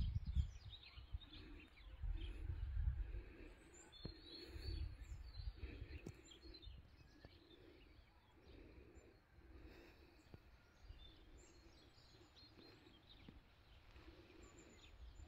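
Faint outdoor ambience: small birds chirping here and there, over a low rumble that swells and fades several times in the first half.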